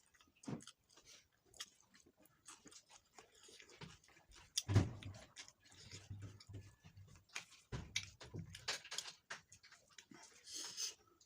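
A person chewing food close to the microphone: irregular wet clicks and smacks, with a louder dull thump a little under five seconds in and another near eight seconds.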